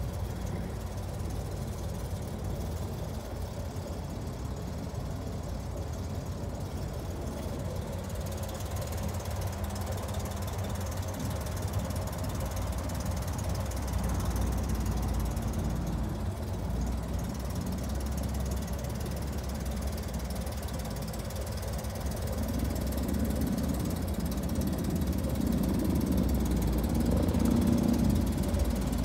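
1962 Chevrolet Corvair van's rear-mounted air-cooled flat-six engine running steadily, getting louder about halfway through and again over the last several seconds.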